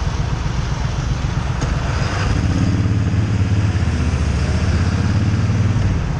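Motorcycle engine running, growing louder about two seconds in.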